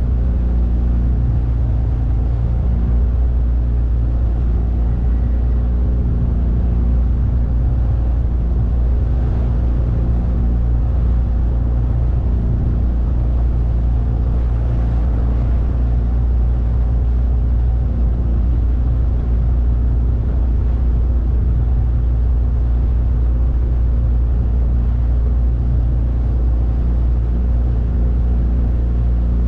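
A 9.8 hp outboard motor running steadily, a loud, unchanging low engine drone.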